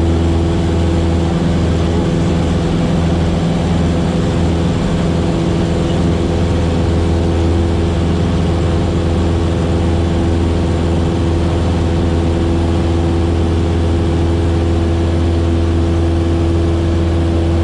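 Cessna 152's four-cylinder Lycoming O-235 engine and propeller running steadily, a constant low drone with no change in power.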